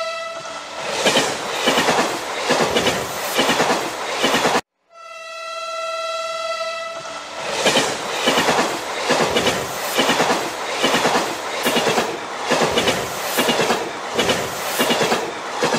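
Train sound: a steady horn note, then the rhythmic clickety-clack of wheels running over rail joints. It cuts off abruptly about four and a half seconds in and starts over, horn and clatter again, as a repeated loop.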